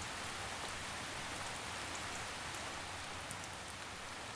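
Steady rain falling in a forest, with scattered faint drops pattering on leaves.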